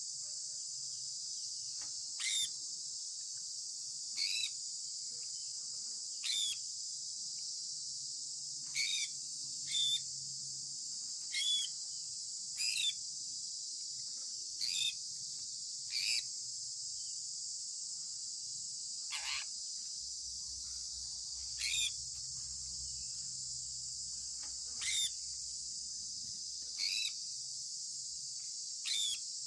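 Sun conure giving short chirps that fall in pitch, repeated roughly every two seconds. One chirp a little after the middle drops much lower. A steady high-pitched hiss runs underneath throughout.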